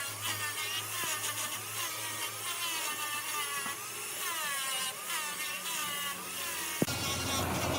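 Wood lathe turning, with a tool cutting into the spinning wood: a steady motor hum under a high whine that wavers up and down about once a second. The sound changes abruptly near the end.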